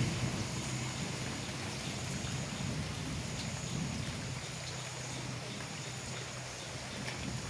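Steady rain falling, with scattered small drip ticks and a low hum underneath that eases after the first few seconds.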